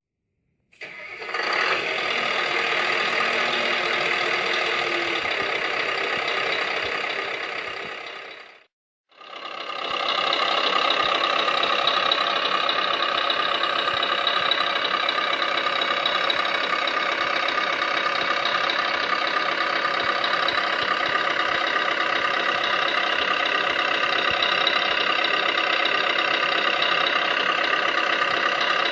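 Electronic sound module of a 1:14 Tamiya Scania R560 RC truck playing a diesel engine: it starts about a second in and idles, dies away near the middle, then starts again and idles steadily.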